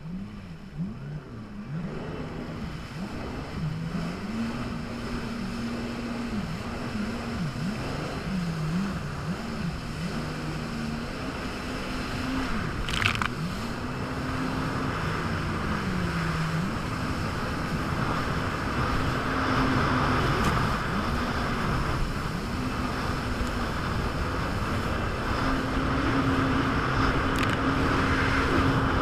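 Jet ski engine running with the throttle repeatedly opened and eased, its pitch rising and falling, over a steady rush of water and wind; near the end it holds a higher, steady pitch.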